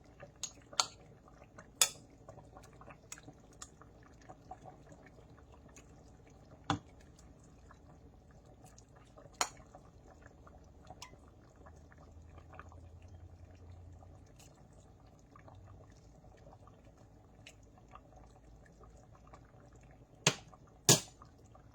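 Soup being dished up into a bowl: a serving utensil clinks sharply against the pot and bowl a few times, with two clinks close together near the end, with soft liquid sounds in between.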